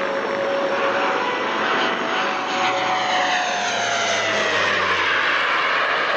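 Fokker F27's Rolls-Royce Dart turboprops whining loudly as the aircraft flies past low, the pitch of the engine tones falling from about midway as it goes by.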